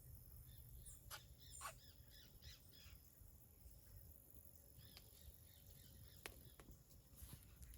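Faint wild birds calling: a scatter of short chirps and calls over an otherwise near-silent background with a low rumble.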